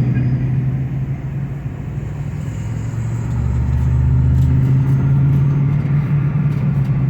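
Car engine and road noise heard from inside the cabin with the windows open. The engine note rises about halfway through as the car speeds up.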